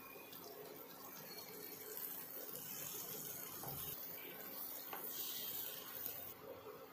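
Elephant foot yam slices frying in oil in a nonstick pan, with a faint, steady sizzle, while a wooden spatula scrapes and turns them. A couple of light taps come midway.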